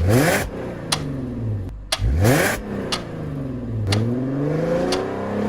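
Audi A7's 3-litre V6 engine revving, its pitch climbing and falling back three times in a row, with a short rush of noise as the first two revs climb.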